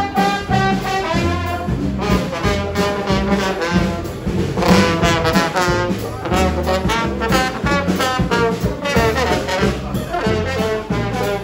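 Brass-led music, with trombone and trumpet playing over a steady repeating bass line.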